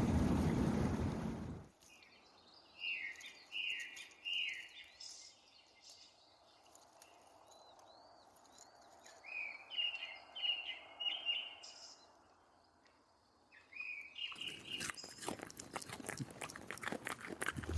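A songbird calling in short runs of quick, down-slurred notes, three or four at a time with pauses between. It opens with loud noise that cuts off after about two seconds, and crunching steps begin near the end.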